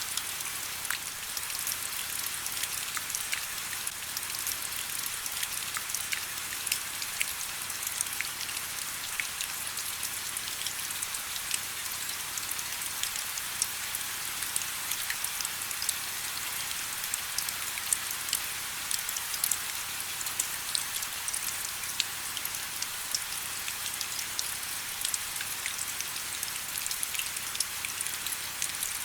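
Steady rain with many close, distinct drops pattering on surfaces: a hiss in the upper range, scattered sharp drop ticks throughout, and little low rumble.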